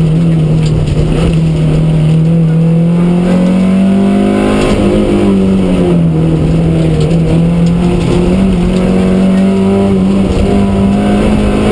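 A 1400cc Mark 2 Astra rally car's four-cylinder engine running hard, heard from inside the cabin. Its note holds fairly steady, dips slightly in the middle and climbs again near the end.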